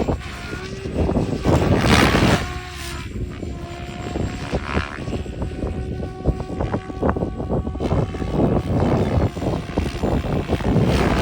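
SAB Goblin RC helicopter in flight, its rotor and drive whining in tones that shift up and down as it manoeuvres. Gusty wind buffets the microphone.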